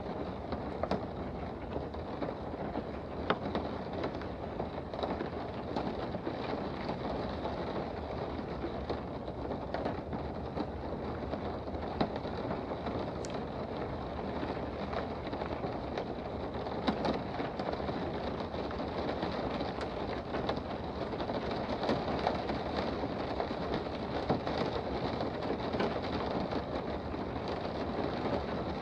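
Steady rain heard from indoors: an even hiss of rainfall with scattered sharp drop taps.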